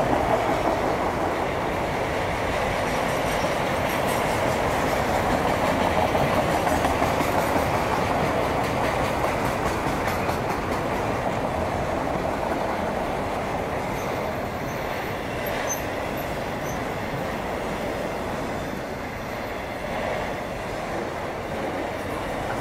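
Autorack freight cars rolling past on the track: a steady rumble and rattle of steel wheels on rail, easing off slightly toward the end.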